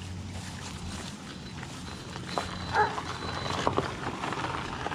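A dog barks once a little under three seconds in, over a steady low hum and a few light clicks.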